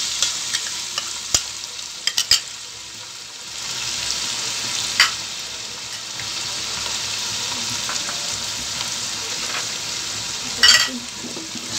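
Onions and ginger-garlic paste sizzling steadily in hot oil in an aluminium pot, the sizzle growing louder about three and a half seconds in. Sharp clicks early on come from a metal spoon scraping garlic paste out of a bowl into the pot, and there are a couple more sharp knocks later, the loudest near the end.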